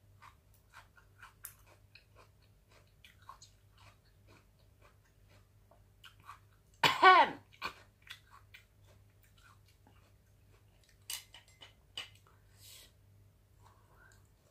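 Close-miked chewing and wet mouth clicks of a person eating cooked catfish, with a short loud vocal sound falling in pitch about seven seconds in.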